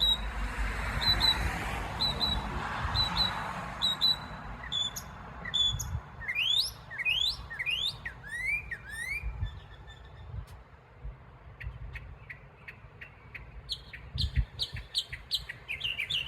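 Northern mockingbird singing, running through varied phrases and repeating each several times: short high chirps, then a series of rising slurred notes about two a second, then fast dry ticking notes and a rapid repeated phrase near the end.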